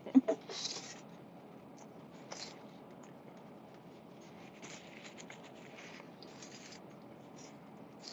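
Faint, brief rustling and scratching sounds of someone eating a burger and fries, coming every second or two over a low hiss.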